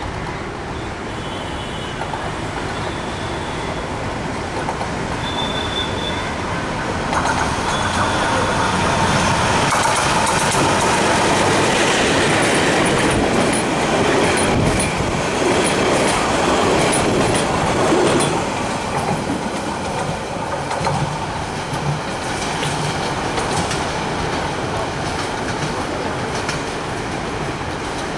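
Short passenger train hauled by a Bangladesh Railway diesel locomotive passing close by: the engine and the coaches' wheels on the rails grow louder about seven seconds in, are loudest as the coaches roll past, and fade as the train moves away.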